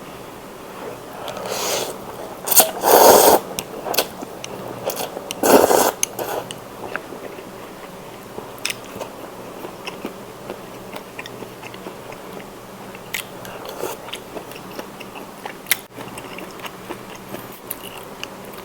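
Close-miked eating of spicy seafood instant noodles. A few loud bursts come in the first six seconds, then steady chewing with many small clicks and smacks.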